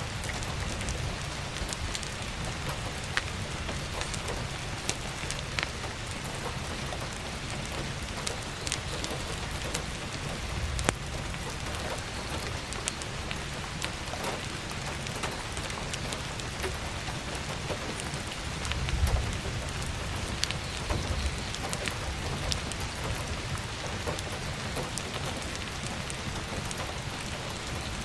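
Steady heavy rain pattering on a roof skylight, with scattered sharp crackles and pops from burning firewood in a wood stove. A low rumble swells briefly about two-thirds of the way through.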